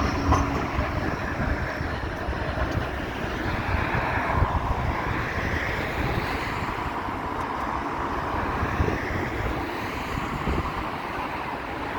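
Wind buffeting a phone's microphone over the steady noise of passing traffic, with a faint vehicle whine in the middle.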